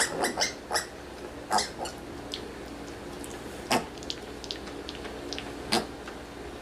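Cat making a series of short, sharp calls, several in quick succession at first, then single ones about two seconds apart, over a faint steady hum.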